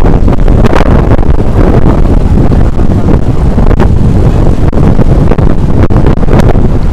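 Loud, continuous wind buffeting the microphone, a deep rumbling noise with a few brief crackles.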